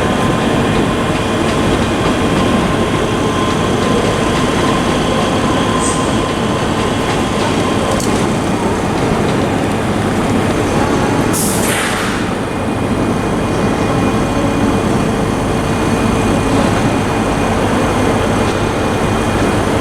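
Pair of ScotRail Class 385 electric multiple units running out of the platform with a steady, loud rail rumble and a faint whine, a little wheel squeal, and a short hiss about eleven and a half seconds in.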